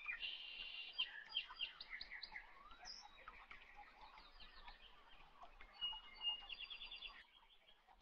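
Small birds chirping and twittering in the background, with a quick trill about six seconds in. Faint clicks of small plastic parts being handled.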